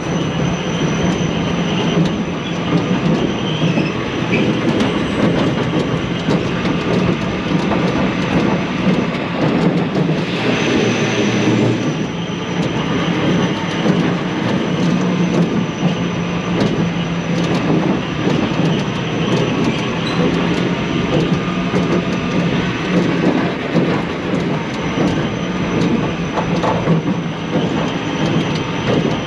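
Coaster car's wheels rolling and rumbling steadily along a metal track, heard loud and close from on board the ride.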